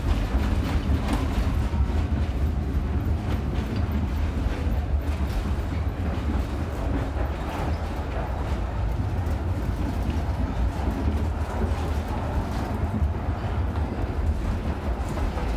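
Tram running along its rails: a steady low rumble with faint scattered clicks from the wheels and track.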